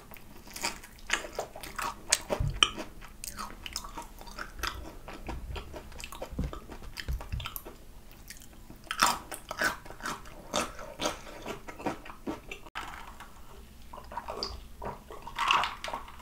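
Close-up crunching and chewing of crispy fried chicken in the mouth: many short, sharp crackles and wet mouth clicks at an irregular pace. Near the end, drinking from a glass.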